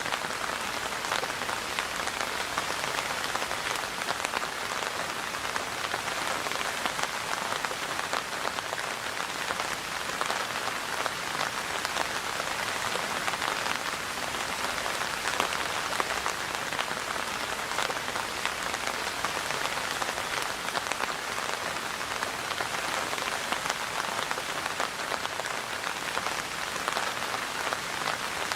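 Steady rain falling on a surface, an even hiss with many fine individual drop ticks. It is constant, with no thunder or change in intensity.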